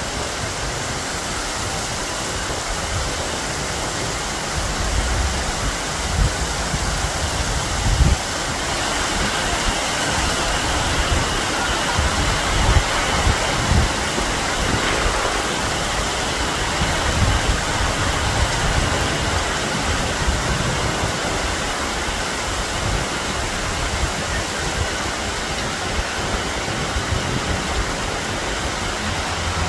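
Heavy rain pouring down steadily, a dense even hiss, with irregular low rumbles rising and falling beneath it.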